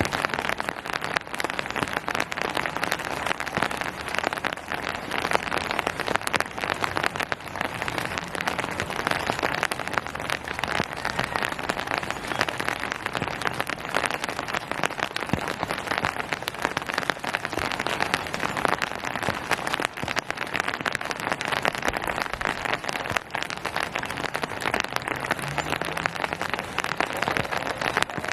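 Steady rain falling and pattering on surfaces, a dense even hiss made up of many small drop impacts.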